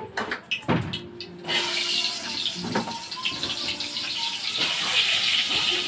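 Pumpkin slices sizzling as they are frying in hot oil in a wok on a gas stove. The hiss starts suddenly about one and a half seconds in and stays steady, after a few light knocks of handling.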